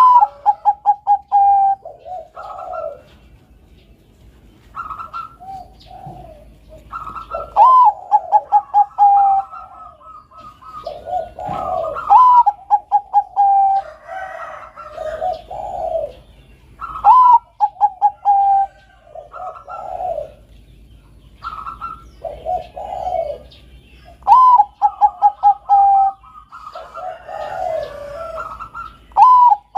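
Zebra dove (Bangkok perkutut) cooing in repeated song phrases every few seconds. Each phrase opens on a high rising note, runs into a quick string of short clipped notes, and ends in lower rolling coos. Faint higher chirps sound in the background.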